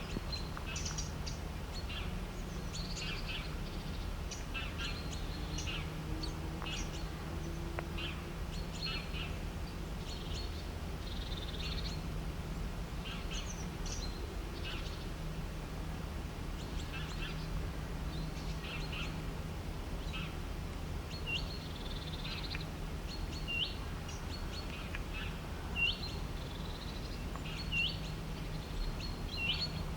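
Several birds chirping and calling over a steady low background hum. From about two-thirds of the way in, one bird repeats a short, sharp hooked call every second or two.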